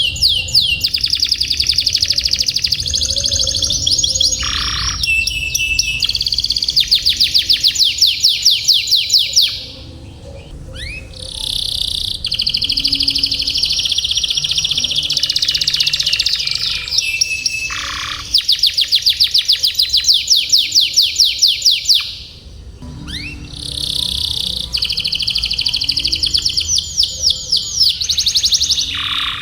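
Domestic canary singing long rolling trills: phrases of rapid, evenly repeated high notes lasting several seconds each, with short breaks about ten seconds in and again about twenty-two seconds in.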